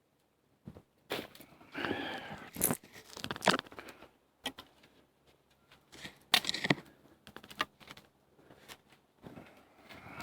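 Sticks and wet debris being handled and dragged together, rustling and scraping, with several sharp cracks as twigs snap or knock together, the loudest about three and six seconds in.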